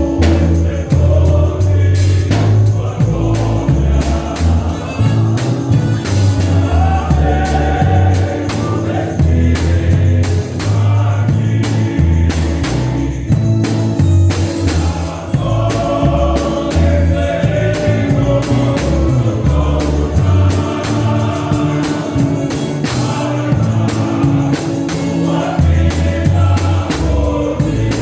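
Gospel song with a group of voices singing over a heavy bass line and a drum beat.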